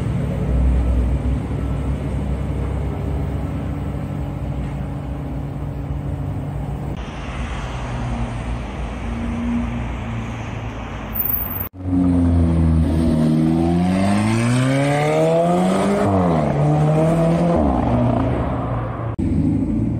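Supercar engines in several short clips. First a Lamborghini Huracán's V10 idles steadily. Then a car drives off along a street. After a cut, an engine is revved hard with its pitch climbing steeply, then drops back and runs on at lower revs.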